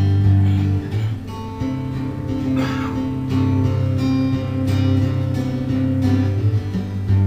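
Acoustic guitar strumming chords in a live instrumental passage.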